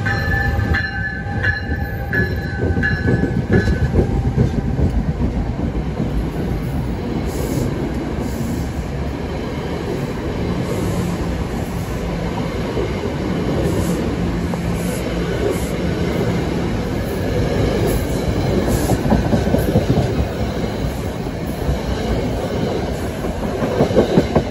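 NJ Transit ALP-46A electric locomotive and its passenger coaches passing close by at speed: steady noise of steel wheels running over the rails, with a high whine in the first few seconds as the locomotive goes by.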